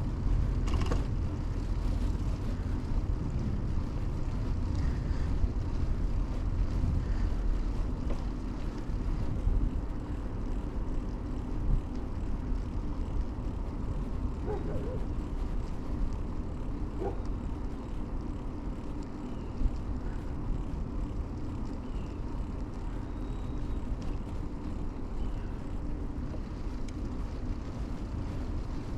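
Steady low rumble of a 2000 Kona Blast mountain bike being ridden on pavement: tyre roll and wind noise heard at a chest-mounted camera.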